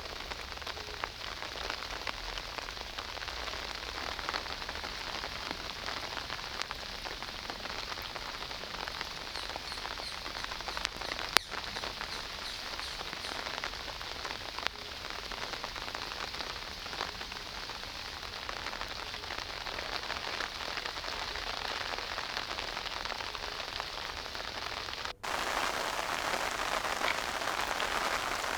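Steady rain falling and pattering on surfaces, with one sharp tap about eleven seconds in. Near the end the rain abruptly becomes louder and brighter.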